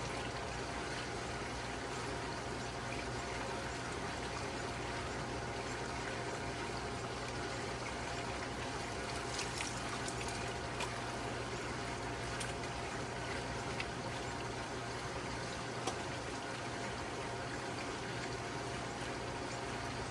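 Water running steadily, with a low steady hum underneath and a few faint clicks near the middle.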